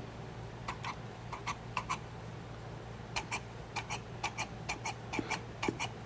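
Light metallic clicks, mostly in quick pairs at an uneven pace, from the parts of an SU H1 carburetor being handled and worked, over a steady low hum.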